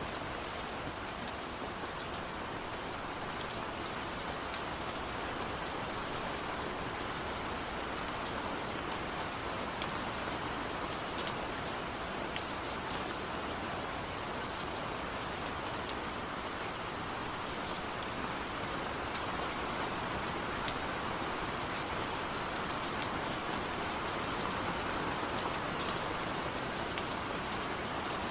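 Steady rain falling, with scattered sharp ticks of individual drops standing out every few seconds.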